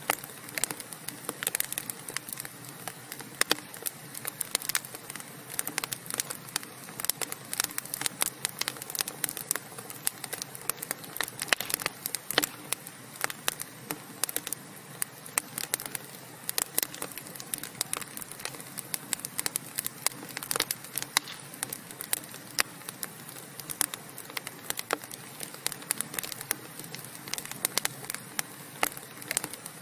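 Wood fire burning in a fireplace, crackling with many irregular pops and snaps over a steady hiss.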